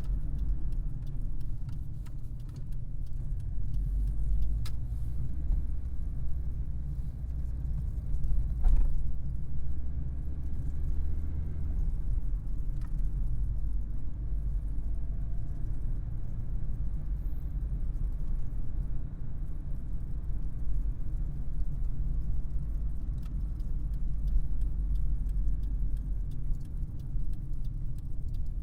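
Vauxhall Carlton car engine running steadily, a low rumble that shifts slightly in pitch about twelve seconds in, with a few faint clicks.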